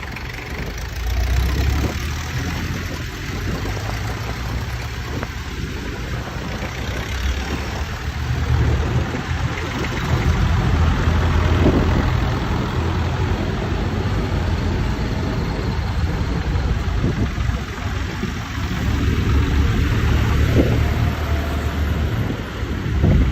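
Old tractor engines running as tractors drive past one after another, a low engine note that swells and fades with each pass.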